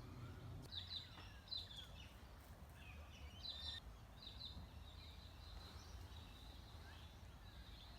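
Small birds chirping faintly: a few short high chirps in the first half, then a continuous high twittering through the second half, over a steady low rumble.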